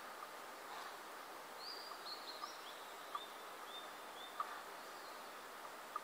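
Faint bird calls over a steady outdoor hiss: a quick run of about seven short, high chirps from about a second and a half in, with a few brief sharp clicks scattered through.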